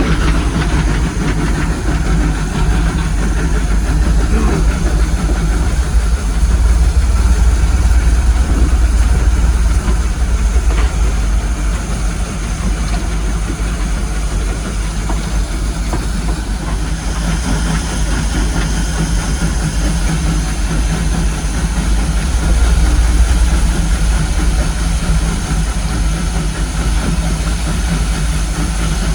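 Steam-hauled heritage train heard from on board: a steady low rumble with hiss. A higher whine joins about halfway through.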